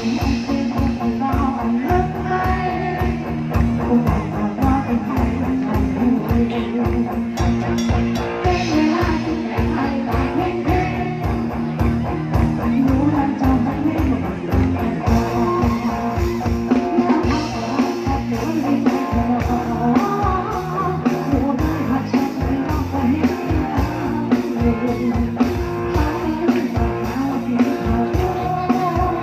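Live band music: electric guitar and drum kit keeping a steady beat, with a voice singing over it.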